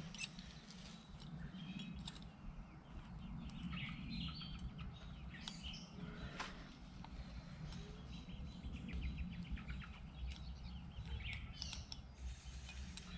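Small birds chirping on and off, with a few sharp clicks and a low rumble underneath.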